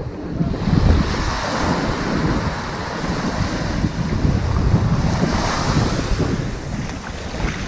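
Ocean surf washing up a sandy beach: a wave's hiss swells about half a second in, holds for several seconds and eases near the end. Wind rumbles on the microphone underneath.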